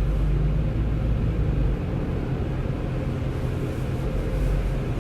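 Diesel truck engine running steadily at low revs as a steady low rumble while the truck creeps forward.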